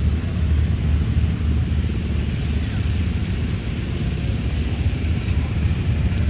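Small garden tractor engine running with a steady low rumble.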